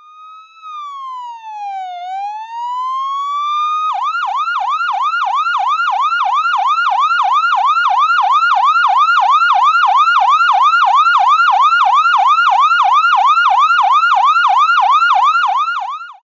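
Electronic emergency-vehicle siren: one slow wail that falls and rises again, then about four seconds in switches to a fast yelp of rapid up-and-down sweeps, about three a second, before cutting off suddenly near the end.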